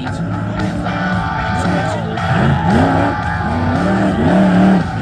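Monster truck engine revving hard, its pitch sweeping up and dropping back again and again as the truck is driven, over rock music.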